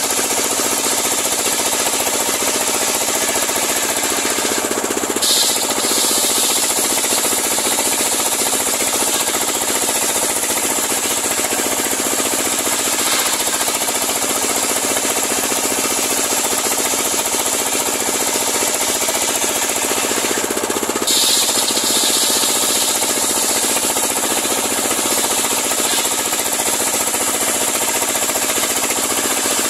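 Homemade engine-driven circular sawmill running steadily while cutting a large log. Its sound shifts briefly about five seconds in and again about twenty-one seconds in.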